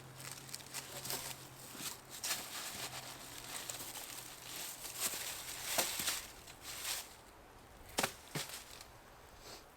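Scattered rustling and crinkling with a few sharp knocks, two close together about six seconds in and two more near the end.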